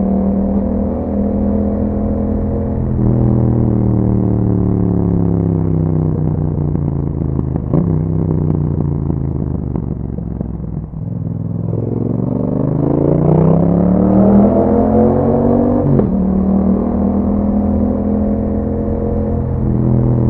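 2021 Yamaha MT-07's parallel-twin engine running through an Akrapovic exhaust while riding: the engine note sinks slowly as the bike slows, then rises as it accelerates. It drops sharply at a gear change about three-quarters of the way in, then holds steady.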